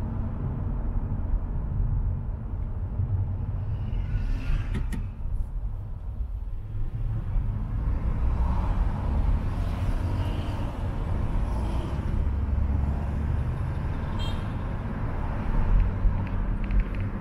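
A car driving in city traffic, heard from inside the cabin through a dashcam: steady low engine and road rumble, with a couple of brief higher-pitched sounds.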